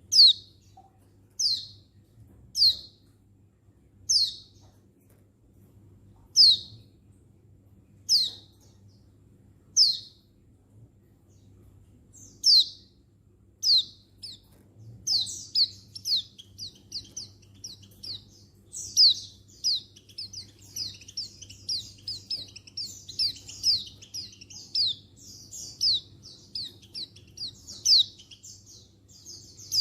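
Female white-eye (pleci) calling to attract males: short, high, downward-sliding call notes, one about every one and a half to two seconds. About halfway the notes turn into a fast, dense run of chirps.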